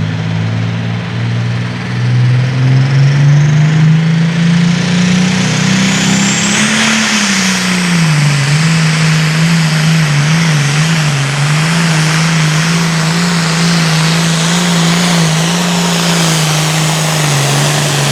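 Super Farm pulling tractor's turbocharged diesel engine running hard under load down the track. Its pitch climbs for the first several seconds, drops back a little, then holds fairly steady.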